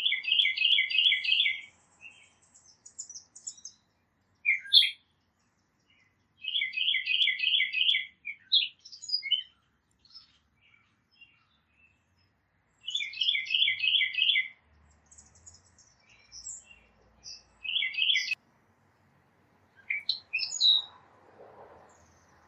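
A songbird singing the same quick phrase of about six notes three times, roughly six seconds apart, with other small birds calling and chirping in between.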